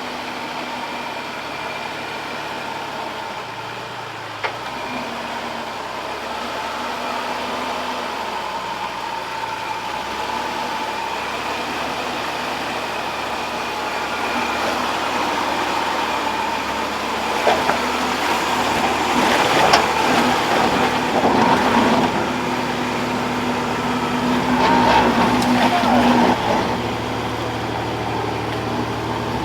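Four-wheel-drive truck engine running at low speed while crawling over rough ground, with several knocks in the second half.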